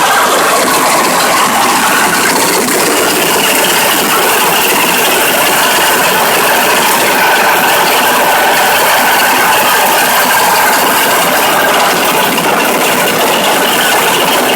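MOROZ pumpkin-seed harvesting combine, powered by a 16 hp petrol engine, running steadily: loud, continuous mechanical noise from the machine's engine and working gear.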